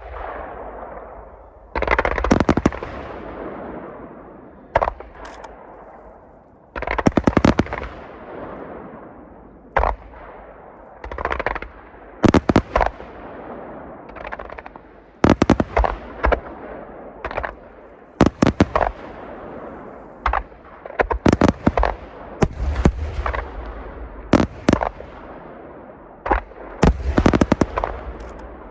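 Aerial firework shells bursting in quick succession: single sharp bangs and rapid clusters of crackling reports, each followed by a fading rolling echo.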